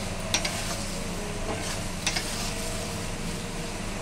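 Mashed snake gourd sizzling in oil in a kadai as it is fried dry to cook off its water, with a spatula stirring and scraping through it and a couple of sharp taps against the pan, about a third of a second in and again about two seconds in.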